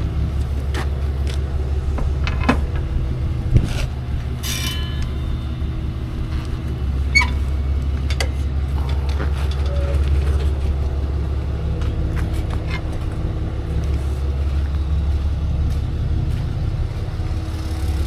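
A vehicle engine idling steadily with a low rumble, with a few light clicks and a brief hiss about four seconds in.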